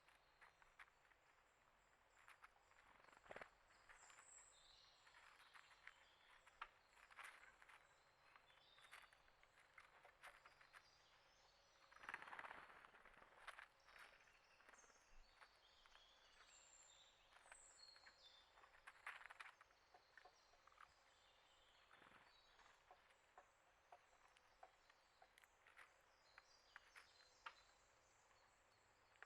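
Faint outdoor wildlife sounds: scattered small clicks and rustles with a few faint, short, high bird chirps, and a longer rustle about twelve seconds in.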